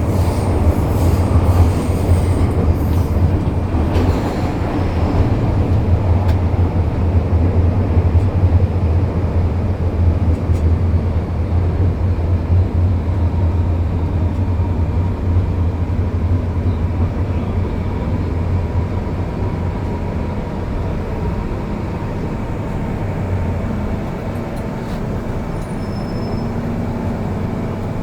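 MTR M-Train electric multiple unit running on the Kwun Tong Line: a steady low rumble of wheels on track that eases off gradually through the second half, with a faint steady whine coming in about midway.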